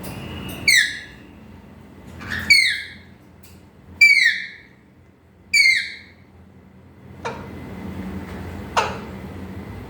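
Pet parrot calling: four loud, short whistled calls, each sliding down in pitch, about a second and a half apart, followed by two brief sharper chirps near the end.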